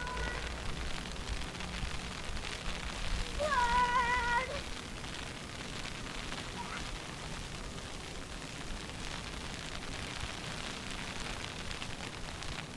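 Steady outdoor street noise, an even hiss, on a snowy city street. About three and a half seconds in, one pitched note about a second long stands out.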